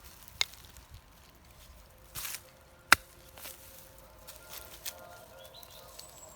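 A digging tool striking into the soil to lift sakarca plants out by the root: a few sharp knocks, the loudest about three seconds in, with a short scraping rustle of earth just before it.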